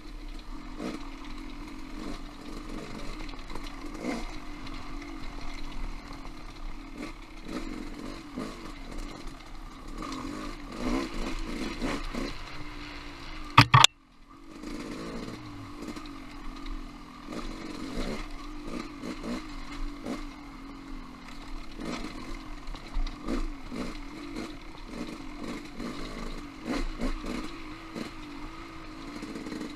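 Off-road motorcycle engine running at shifting revs while riding rocky singletrack, with frequent knocks and clatter from the bike over rough ground. About halfway through, a loud sharp knock is followed by a brief drop in sound before the engine noise returns.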